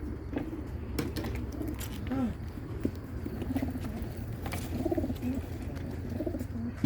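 Many racing pigeons cooing at once, short low calls overlapping one another, with a few sharp clicks among them.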